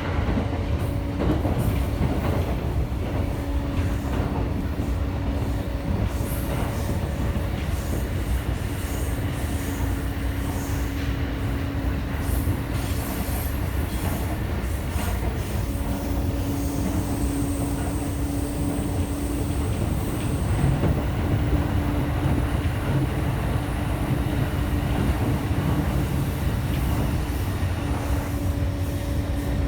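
Ueno-Tokyo Line electric commuter train running at speed, heard from on board: a continuous rumble of wheels on rail, with a steady motor hum that fades out and returns several times.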